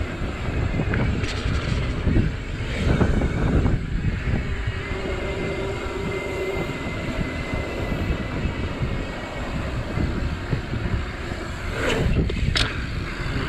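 Santa Cruz Tallboy mountain bike ridden over a rough dirt trail: continuous rumble and rattle of tyres and frame over the ground. There is a faint thin tone for a few seconds in the middle and two sharp knocks near the end.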